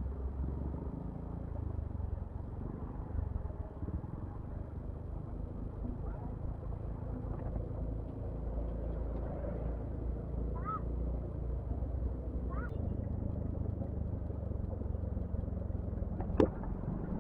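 Riding noise from a Yamaha XMAX scooter on the move: a steady low rumble of engine and wind on the microphone. Two short faint chirps sound midway, and a sharp knock comes near the end.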